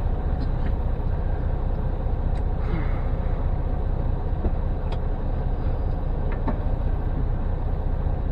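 Semi-truck's diesel engine running at low speed during a slow manoeuvre, a steady low rumble with a few faint clicks.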